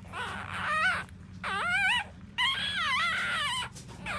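Four-day-old puppies whining with three high, wavering cries, the last the longest.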